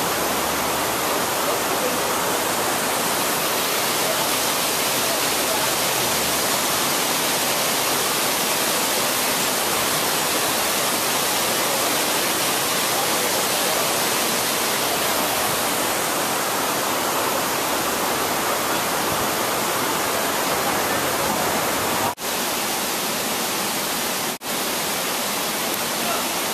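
Waterfall, Bald River Falls: a steady rush of falling water. It breaks off twice for an instant near the end.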